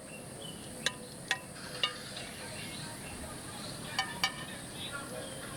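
Steady high-pitched insect chorus, with a few short sharp clicks about a second in and again about four seconds in.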